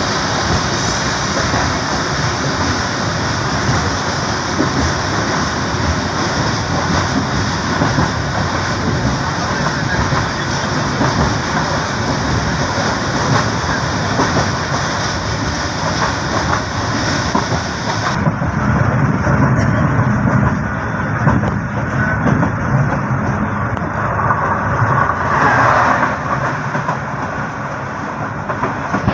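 Running noise of a moving passenger train, heard from an open coach doorway: a steady rumble of wheels on the rails with rushing air. Near the end another train passes close alongside on the next track.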